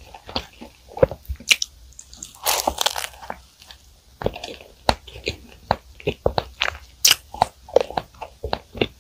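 Close-miked chewing of flaky puff pastry: crisp, crackling crunches and wet mouth sounds, with a louder crunchy burst a little after two seconds in and a short lull near four seconds.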